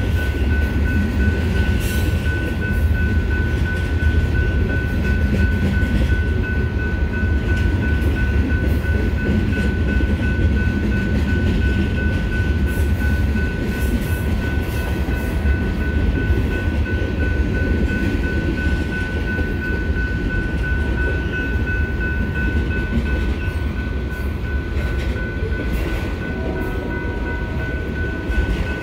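Freight cars rolling slowly past a grade crossing: a steady low rumble of wheels on rail with scattered clicks and clanks, and a steady high-pitched tone ringing over it throughout.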